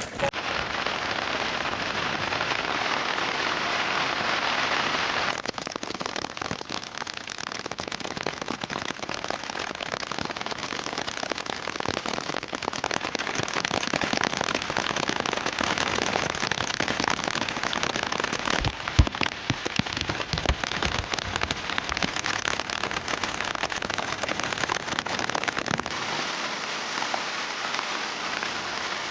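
Steady rain falling, a dense hiss with many individual drops ticking on a surface. The hiss thins about five seconds in, and one sharper knock stands out about 19 seconds in.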